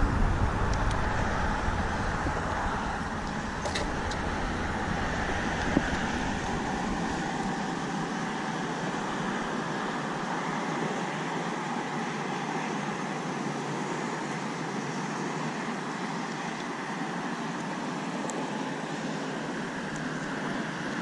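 Steady rushing background noise outdoors, with a faint click about four seconds in and a soft knock a couple of seconds later.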